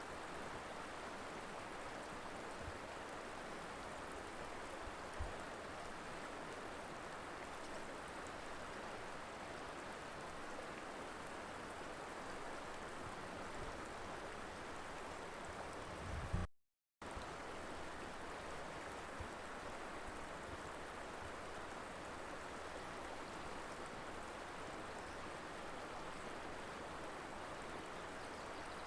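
Mountain river flowing, a steady rush of water over rocks. Just past halfway a low bump is followed by the sound dropping out completely for about half a second before the flow resumes.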